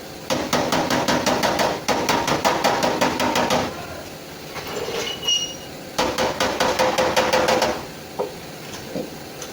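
Rapid hammering on a sheet-metal car fender panel, in two runs of about seven ringing strikes a second with a short pause between them, as body work is done on the dented panel.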